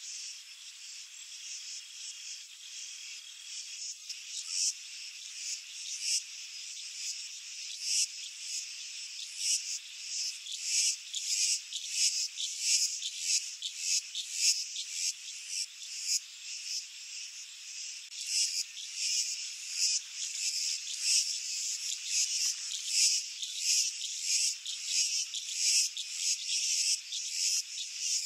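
Dense chorus of high-pitched chirping calls, pulsing rapidly and irregularly, growing louder about ten seconds in.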